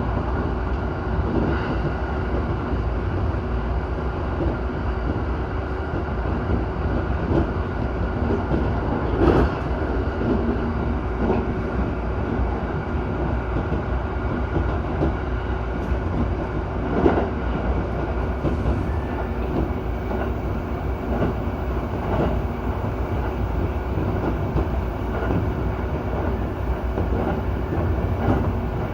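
Electric commuter train on the JR Utsunomiya Line running steadily at speed, heard from inside the front car: a constant low rumble with a scattering of short knocks from the wheels passing over rail joints.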